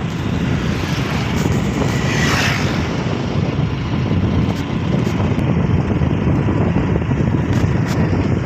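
Steady road and engine noise from a moving vehicle, with wind rumbling on the microphone.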